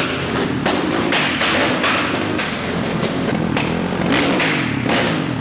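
Motorcycle engine running under heavy wind buffeting on the microphone, with repeated irregular gusts and thumps over a steady low rumble.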